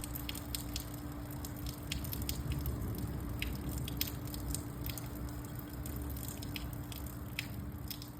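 Raindrops dripping and ticking irregularly, many single sharp drops, over a soft patter with a steady low hum underneath.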